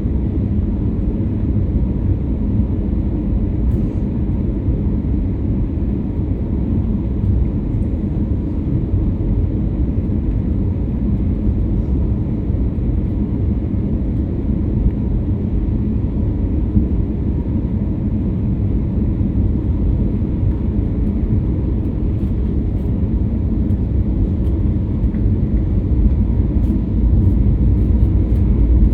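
Steady low rumble of a jet airliner's engines and rushing air, heard inside the passenger cabin, growing slightly louder near the end.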